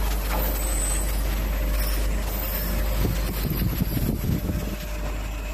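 Automatic machine for brass radiator valves running: a steady mechanical hum and hiss with a faint constant tone, and a stretch of irregular low knocking a little past the middle.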